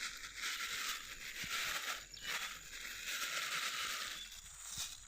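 Dry rustling and crunching in uneven bursts, each about a second long, with a brief lull near the end.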